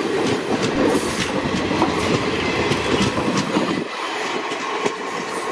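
Passenger train coaches rolling on the rails, their wheels clicking and clacking over rail joints with a steady rumble; the deepest part of the rumble falls away about four seconds in.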